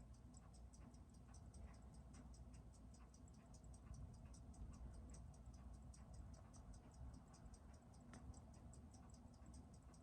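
Faint, fast, even ticking of a Seiko 6139 automatic chronograph movement running on a timegrapher, about six ticks a second, the 21,600 beats-per-hour rhythm of its balance.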